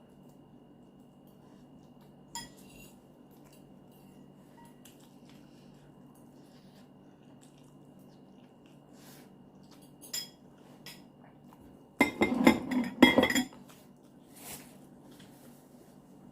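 Cutlery clinking against a bowl: a few light taps, then a loud cluster of clattering about twelve seconds in that lasts a second and a half.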